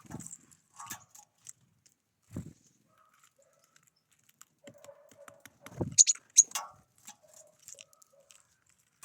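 Wild birds giving scattered short calls and clicks. The loudest is a pair of high, sharp chirps about six seconds in, with a few low thumps mixed among them.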